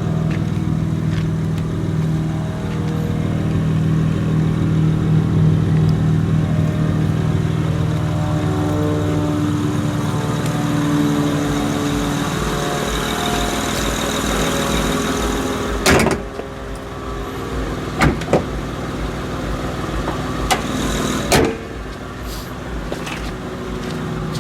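Honda Accord V6 running, with a steady note that shifts to a lower, pulsing sound about ten seconds in. Later come three sharp knocks, a few seconds apart.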